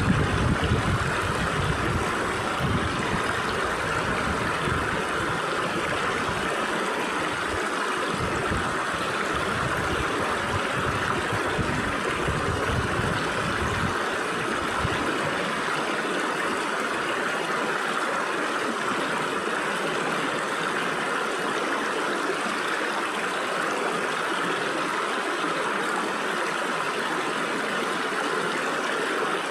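Stream water flowing through the gaps between rocks, a steady rush. Irregular low rumbling comes and goes through the first half and stops about halfway.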